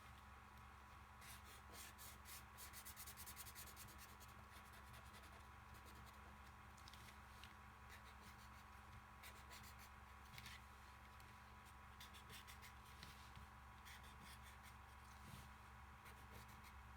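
Faint scratching of drawing strokes on cardboard as small stars are drawn, with a quick flurry of strokes about two seconds in and scattered single strokes after, over a low steady hum.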